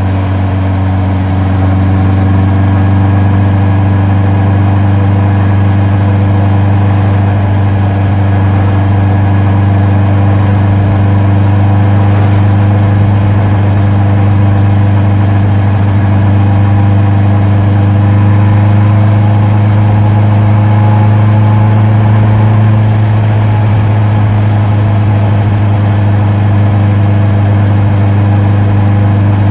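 Honda CB650R's inline-four engine and exhaust running under way, holding a nearly steady engine note with only slight rises and dips in pitch.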